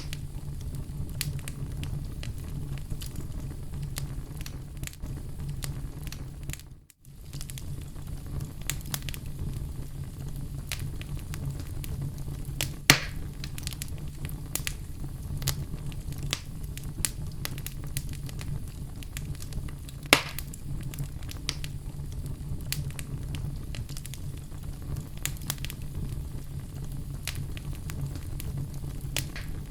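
Oak logs burning in a fireplace: a steady low rumble of flame with frequent small crackles and two sharp, louder pops, one about thirteen seconds in and one about twenty seconds in. The sound drops out for a split second about seven seconds in.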